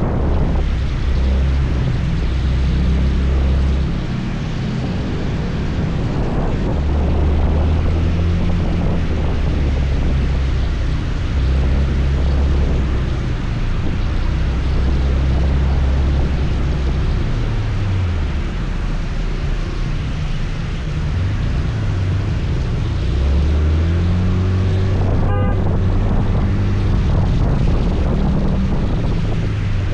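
Scooter engine running while riding, its low note falling and rising with speed changes, under a steady rush of wind noise on the microphone.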